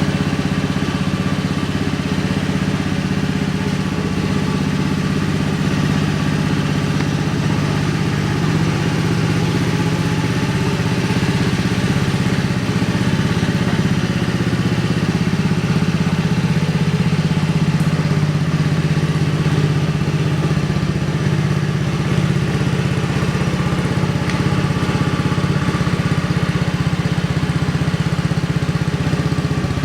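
Honda Giorno AF70 scooter's fuel-injected 50cc four-stroke single-cylinder engine idling steadily through a custom aftermarket muffler.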